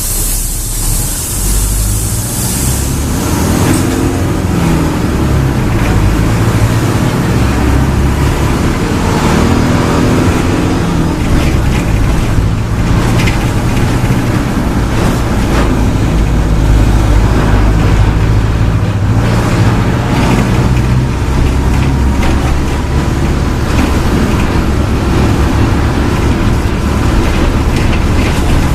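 Mercedes-Benz OF-1722M bus diesel engine running hard at high revs, its note rising and falling as the bus pulls through the gears. A hiss of air is heard at the start.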